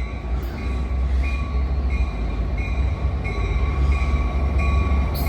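Amtrak F59PHI diesel locomotives pulling into a station: a low engine rumble that grows slightly louder, with a thin high tone coming and going over it.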